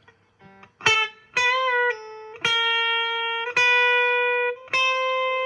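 Electric guitar picking five single notes, each let ring until the next, through a JHS Ross pedal switched to its bright mode. The tone is clean, with a slight pitch waver on the second note.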